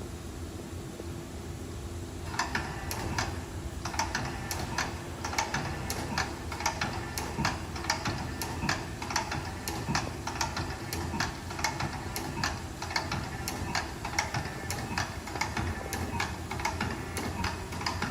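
Hwacheon T130 lathe running with a steady low hum. About two seconds in, a quick, uneven run of sharp ticks starts, several a second, and keeps going.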